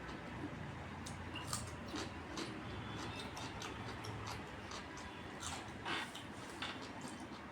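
Close-up eating sounds: irregular wet mouth clicks and smacks while chewing rice and dal, over a low steady hum.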